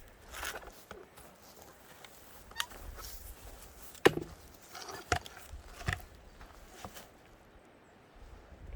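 Axe splitting firewood logs: a handful of separate sharp wooden strikes, the loudest about four seconds in.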